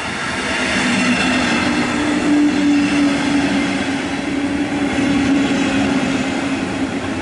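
Double-deck push-pull passenger train rolling into the station alongside the platform: steady rolling rumble of coaches on the rails, with a steady low hum that sets in about half a second in.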